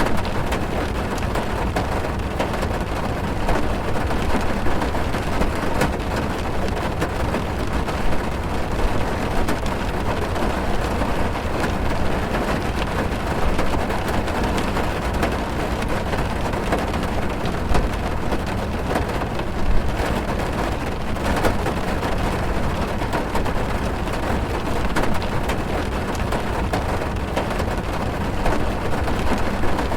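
Heavy rain drumming on a car's roof and windows, heard from inside the car: a steady dense patter with a low rumble and scattered louder drops.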